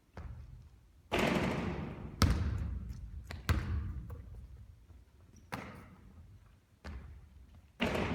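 A basketball thudding on a court during three-point shooting, about seven sharp impacts spaced roughly a second apart, each followed by a short ringing tail.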